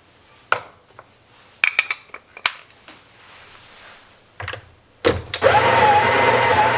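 A few clicks and knocks of parts being handled, then about five seconds in an electric coffee grinder starts and runs steadily, its motor whining with a slight waver in pitch as it grinds beans.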